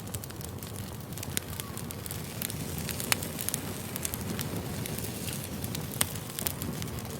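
Campfire crackling: wood burning with a steady low rumble and frequent sharp pops and snaps, a louder pop about three seconds in and another about six seconds in.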